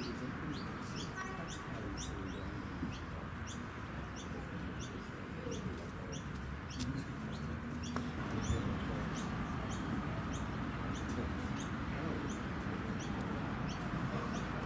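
A bird calling over and over: short high chirps, each sliding down in pitch, repeating about twice a second, over steady outdoor background noise.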